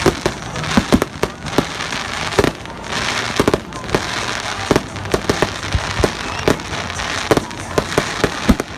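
Fireworks display: a string of irregular bangs and crackling bursts, several each second, over a hissing wash.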